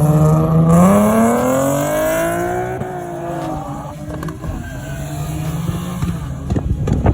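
Car engine accelerating away: its note is held steady, climbs in pitch for about two seconds, then fades as the car pulls off. Wind buffets the microphone near the end.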